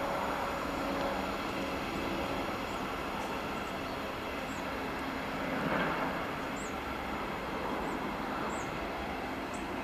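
Red double-deck regional train moving away along the line, its rolling noise steady with a faint electric hum that fades after about two seconds.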